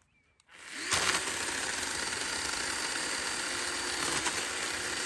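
Hart chainsaw starting about a second in and then running steadily with a high whine, cutting through cedar branches.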